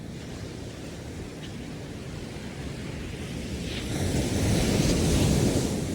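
Ocean surf on a sandy beach: a steady wash of waves, with one wave building and breaking to its loudest about four to five seconds in, then easing off.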